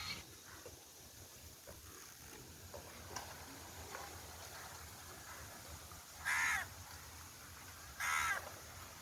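A bird calling twice: two short calls about two seconds apart, over faint outdoor background.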